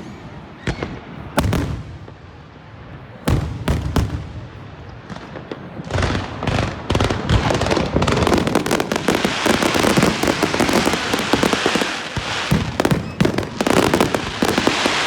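Fireworks going off: a few sharp separate bangs in the first four seconds, then, about six seconds in, a dense run of rapid crackling pops takes over and keeps going.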